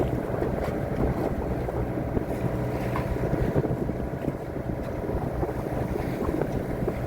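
Sailboat's auxiliary engine running steadily while motoring, a constant drone, with wind buffeting the microphone and water washing past.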